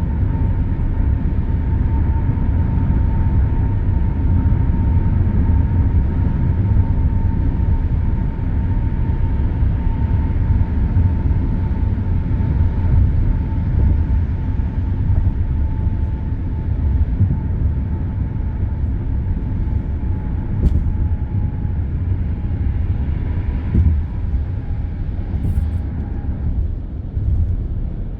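Steady expressway traffic noise, a deep continuous rumble of tyres and engines, with a faint whine that slowly drops in pitch and fades out near the end.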